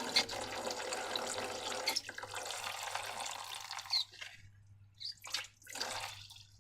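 Liquid being poured in a steady stream for about four seconds, with a brief break about two seconds in, followed by two short splashy bursts.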